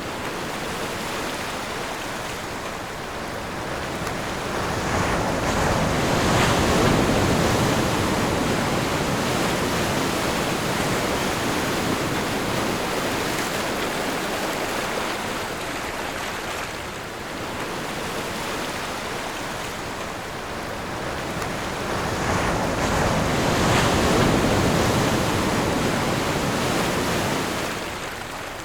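Sea waves washing in as a steady rush of surf, swelling louder twice, about a fifth of the way in and again near the end.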